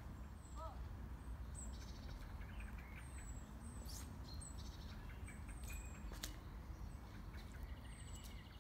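Small birds chirping in the trees: short, high, falling notes that come again and again over a low, steady outdoor rumble.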